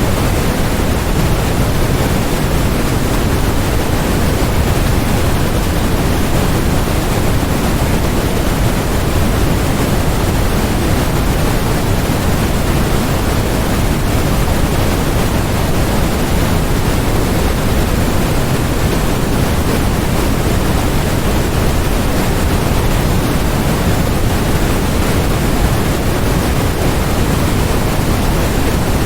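Steady generated noise for masking distractions, sold as white noise, even and unchanging throughout. It is fuller in the bass than in the treble, which gives it a deep hiss.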